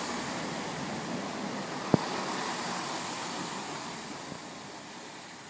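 Class 165 Turbo diesel multiple unit pulling into the platform, a steady rushing noise that fades over the last second or two as it slows, with one sharp click about two seconds in.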